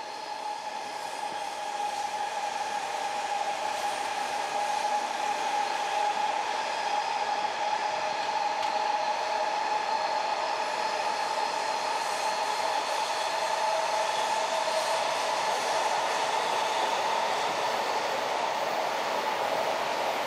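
E4 Series double-decker Shinkansen trains running past, a steady rushing rail noise with a high whine over it. It swells up over the first couple of seconds and then holds steady.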